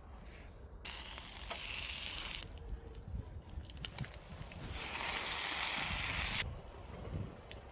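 Slices of bread frying in a pan to make croutons, sizzling in two loud spells about a second in and again around five seconds in, with quieter crackling between.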